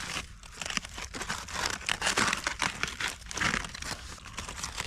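Wrapping crinkling and crumpling in a dense, irregular run of crackles as the cooked moose meat is opened up to be checked.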